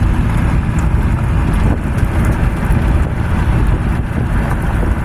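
A car driving in rain: steady low road rumble mixed with the hiss of rain and wind noise.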